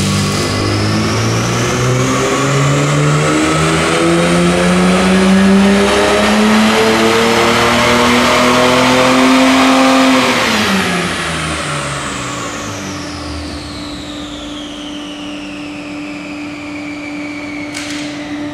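Ford AU Falcon's 4.0-litre inline-six, with aftermarket exhaust and cold air intake, doing a full-throttle power run on a chassis dyno: the revs climb steadily for about ten seconds. Then the throttle is lifted and the revs drop quickly, and the dyno rollers and wheels spin down with a high whine falling slowly in pitch.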